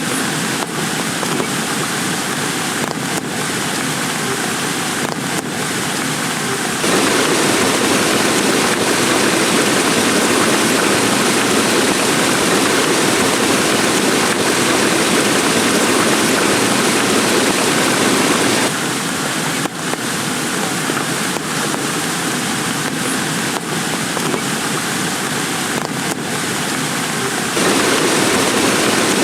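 Heavy rain falling steadily: a dense, even hiss. Its tone changes abruptly about 7 seconds in, again about 19 seconds in, and near the end.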